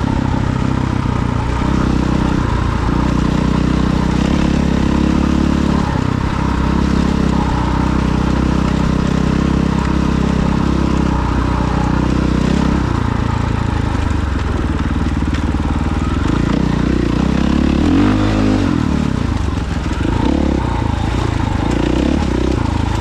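Off-road vehicle engine running under way, its pitch rising and falling with the throttle, loud throughout.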